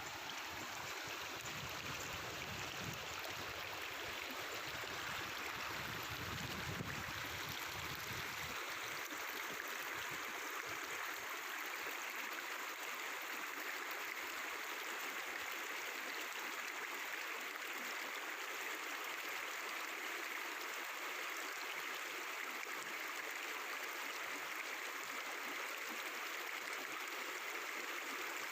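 Mountain river flowing over rocks: a steady babbling, gurgling rush of water.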